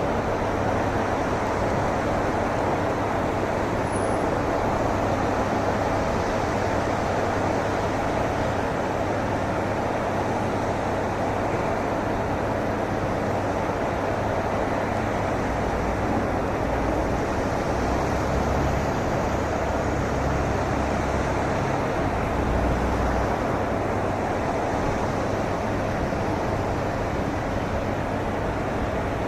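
Steady rushing vehicle noise with a low hum underneath; a deeper rumble swells in a little past halfway and fades again.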